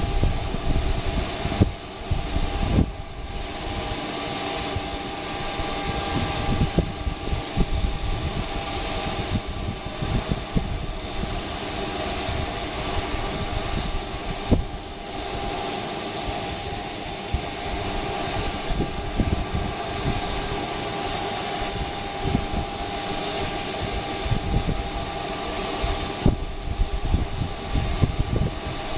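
Jet aircraft engine running at ground idle just after start-up: a steady high whine over a low rumble.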